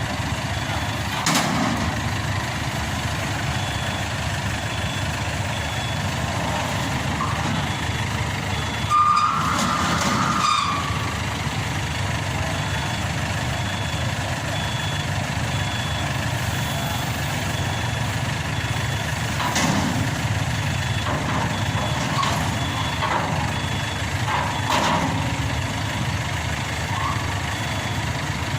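A heavy diesel engine runs steadily while a reversing alarm beeps faintly and regularly through most of it. A few knocks and a louder brief squeal come about nine seconds in.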